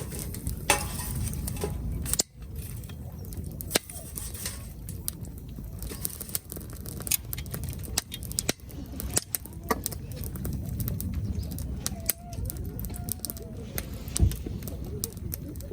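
Wood fire burning in a Solo Stove, crackling with scattered sharp pops at irregular intervals over a steady low rumble.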